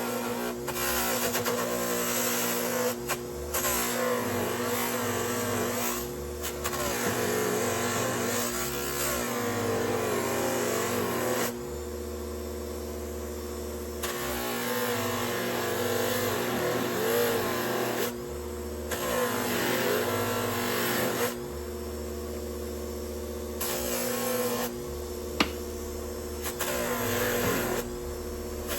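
An electric power tool, such as a grinder or wire wheel, runs steadily while it is worked against the metal of the hammer. A loud rasping sound comes and goes as the piece is pressed on and eased off, and the motor's pitch wavers under the load. There is a single sharp click near the end.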